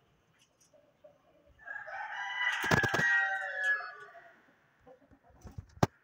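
A long drawn-out crow-like bird call of about two and a half seconds, swelling and then fading, followed near the end by a single sharp knock.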